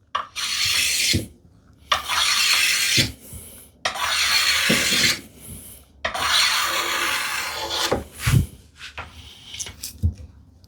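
No. 5 hand plane taking four long chamfering strokes along the edge of a wooden tambour slat, each a rasping swish of a second or two, knocking the sharp corner off so the slat won't catch in the curved track. A few light knocks of wood follow near the end.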